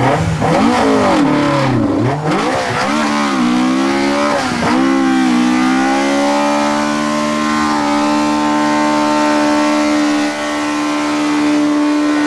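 An old Toyota Corolla's race-spec engine revved hard, its pitch rising and falling several times. From about halfway through it is held steady at high revs on the rev limiter, while the rear tyres spin in a smoky burnout.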